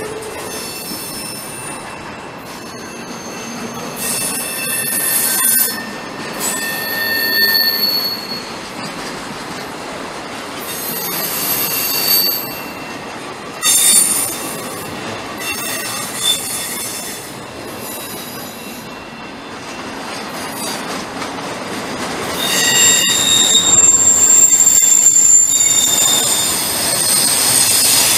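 Union Pacific intermodal freight train rolling past, its steel wheels squealing against the rails in high-pitched squeals that come and go over a steady rumble of rolling cars. It grows louder over the last few seconds.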